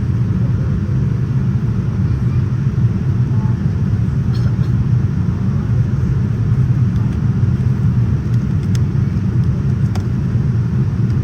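Steady low cabin rumble inside a Boeing 787-9 airliner: airflow and engine noise heard from the passenger cabin, with a few faint ticks.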